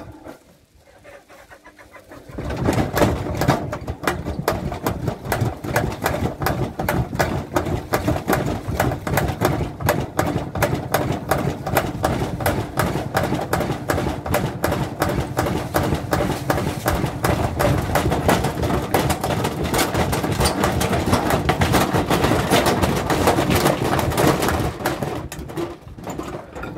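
Washing machine running hard with a rapid, continuous rattling and knocking that starts suddenly a couple of seconds in and eases off near the end.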